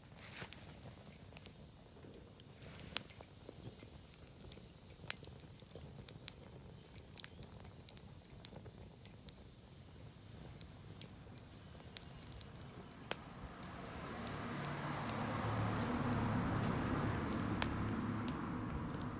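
Wood fire crackling with scattered sharp pops. About two-thirds of the way through, a louder hiss swells up, then eases off near the end.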